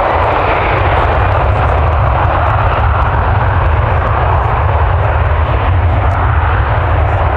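Jet airliner engines running loud and steady: an even rushing noise with a deep rumble underneath.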